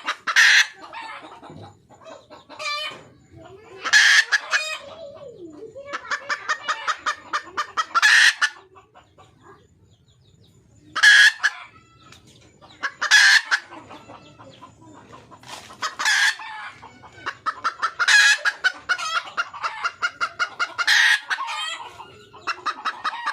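Red junglefowl hen calling for a mate: short, loud calls every two to three seconds, several of them led by runs of rapid clucks, with a brief pause partway through.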